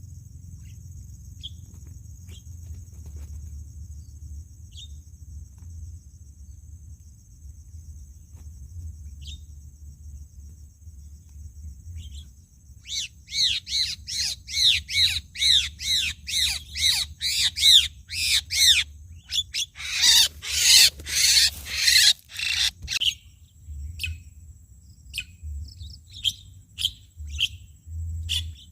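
Starlings calling over a steady high insect drone: scattered single chirps at first, then about halfway a fast run of loud repeated calls, about three a second, followed by a dense burst of calls, and scattered chirps again near the end.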